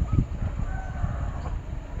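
Domestic chickens calling, with a rooster crowing faintly, over a louder uneven low rumble with thumps.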